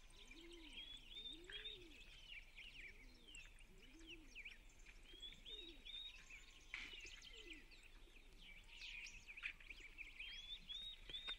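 Faint birdsong: many quick chirping calls overlapping throughout, with some lower, rounded calls underneath.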